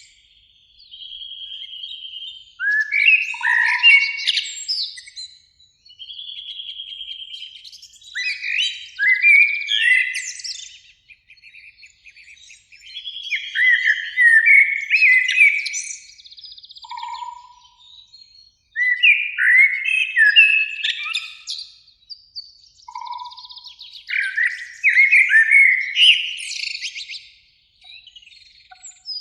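Eurasian blackbirds singing: a string of varied song phrases every few seconds, each a mix of fluting notes and quick twittering trills, with short pauses between them.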